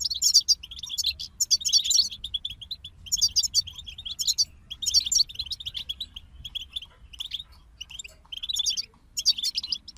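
European goldfinch song: rapid twittering phrases of quick, high notes, starting and stopping in bursts every second or so.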